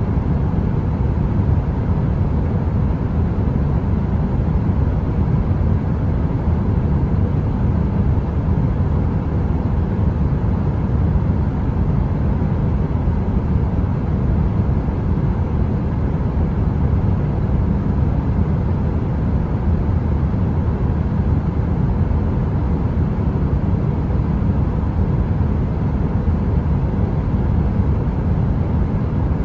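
Heater running: a steady low rumbling noise with a faint even hum, unchanging throughout, with no crackle.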